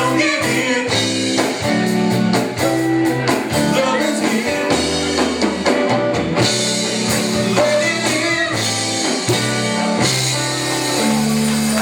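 Live band music with guitar and drums, and singing over it.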